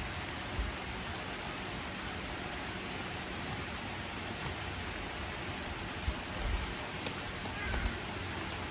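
Steady, even hiss of outdoor background noise, with a few faint low thumps in the second half.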